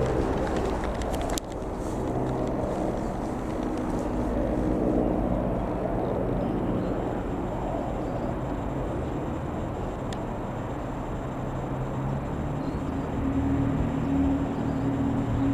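Steady engine drone made of several level humming tones, with a sudden drop in level about a second and a half in.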